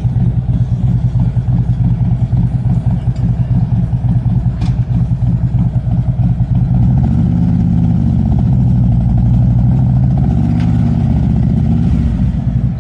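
Motorcycle engine running loud with a deep, pulsing exhaust note, its revs rising and falling in the second half.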